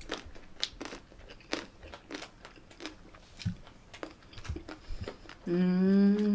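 Close-miked chewing of a mouthful of bossam, boiled pork, with many short wet clicks and crunches. Near the end a voice hums a long, steady 'mmm' through the food.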